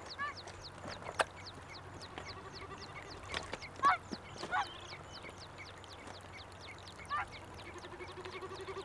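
Birds calling: a rapid, even run of short high chirps, each falling in pitch, several a second, with now and then a louder lower call and a single sharp click about a second in.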